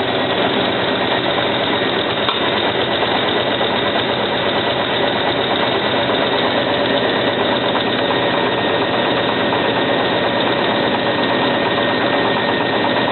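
Hotpoint 9534A washing machine turning its drum in a slow spin while draining, a steady mechanical running noise. The machine has suds-locked (water-locked) on a boil wash and is slow-spinning until most of the water has drained out.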